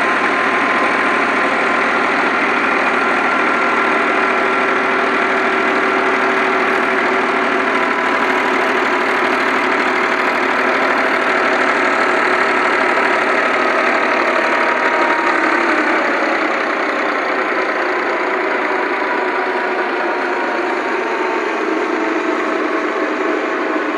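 Millat tractor's engine and the wheat thresher it drives running steadily: a dense mechanical din with faint whining tones. The deep rumble drops away about sixteen seconds in.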